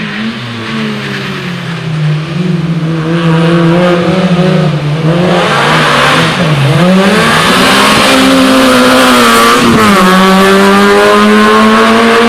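Rally car engine running at high revs, its pitch dipping and climbing again through the middle and dropping sharply near the end, as at gear changes. A rushing hiss swells partway through.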